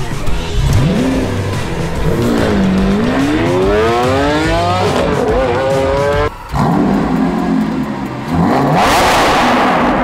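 Lamborghini Aventador SVJ's V12 engine revving hard under acceleration, its pitch climbing steadily for a few seconds, breaking off briefly about six seconds in, then rising again into a loud rushing blare near the end.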